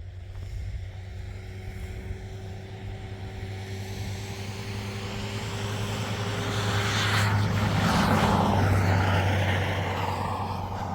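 A motor vehicle's engine running with a steady hum, growing louder to a peak about eight seconds in and then fading a little, like a vehicle drawing close and passing.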